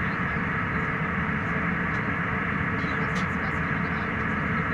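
Steady cabin noise of an airliner in flight: jet engine and airflow noise at an even level.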